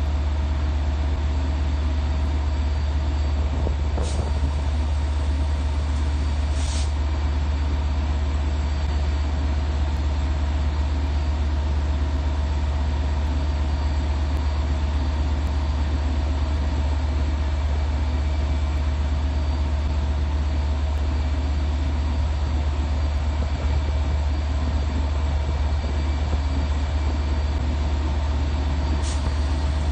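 Long Island Rail Road diesel train standing at the platform, running steadily with a deep low rumble and a steady hum. Brief hisses come about 4 and 7 seconds in and again near the end.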